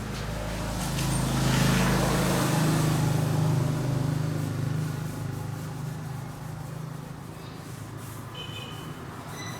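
A motor vehicle's engine, getting louder over the first couple of seconds and then fading away as it passes.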